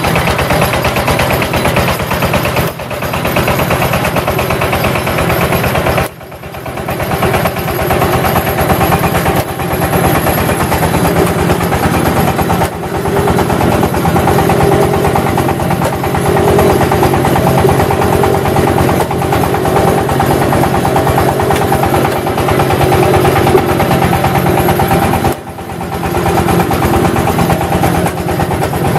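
Engine of an automatic clay brick press running steadily with a fast, even pulse. The sound dips briefly twice.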